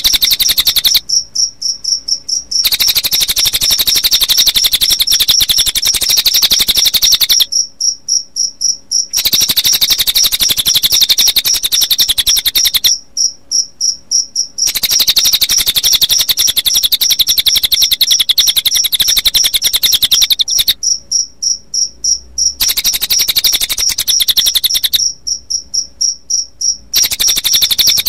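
Recorded cililin bird song mixed with cricket chirping: a dense, high, fast-pulsing trill. It breaks off five times for a second or two, leaving only faint high ticks, then resumes.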